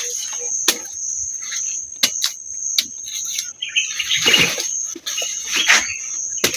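Steady high-pitched drone of insects in farm vegetation, broken by a few sharp clicks and a brief rustle about two-thirds of the way through.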